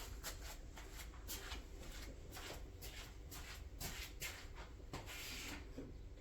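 Faint handling noise: irregular small clicks and taps with light rustling, and a longer rustle about five seconds in.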